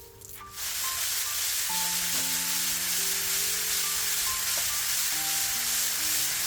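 A loud, steady hiss that starts about half a second in, over background music with sustained notes.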